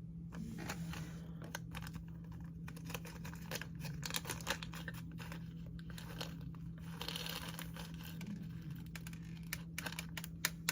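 Small plastic packaging crinkling and being torn open, with scattered light clicks and rattles as slime toppings such as sprinkles and charms are handled.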